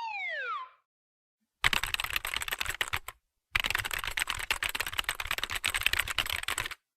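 Fast, rapid typing on a computer keyboard, in two runs of dense key clicks with a short pause between them. At the very start, the tail of a falling whistle-like glide fades out.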